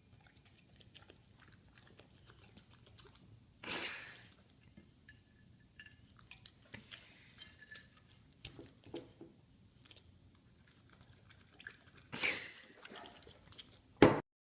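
A pet chewing and crunching food, with many small crisp crunches, and two louder noisy bursts at about four seconds in and again near the end.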